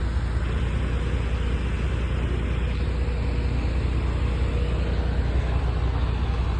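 A steady, low engine drone under a broad hiss, holding the same pitch throughout.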